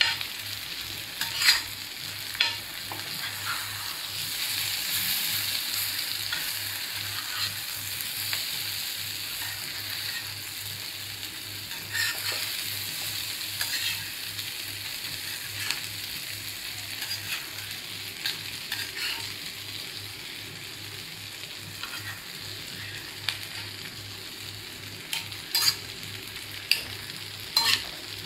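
Masala-coated boiled eggs sizzling steadily in butter and oil on an iron tawa, with a spatula scraping and knocking against the pan now and then.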